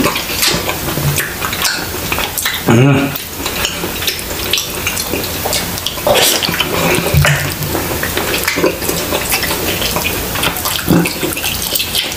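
Close-miked wet chewing and mouth sounds of a man biting into and eating a chile relleno, with many small smacking clicks throughout.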